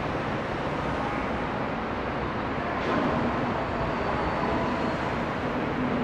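Seibu Ikebukuro Line electric train at the platform, a steady rumble with faint whining tones. A single sharp knock comes about three seconds in.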